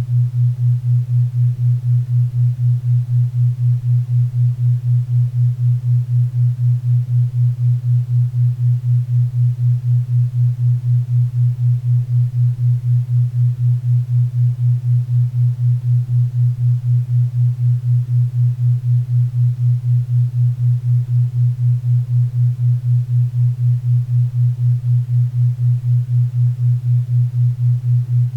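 A 4 Hz theta-wave beat: a low hum-like tone that pulses evenly about four times a second, over a faint bed of pink and brown noise.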